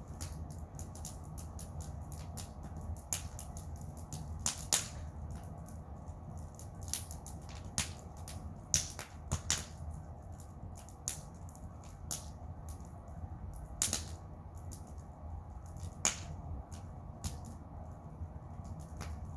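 Wood bonfire crackling, with irregular sharp pops and snaps several times a second over a low steady rumble.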